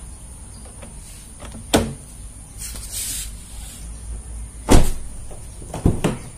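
A few sharp knocks and clicks from a car door and its trim being handled: one knock, a louder one a few seconds later, then two quick ones near the end, with a brief rustle between them.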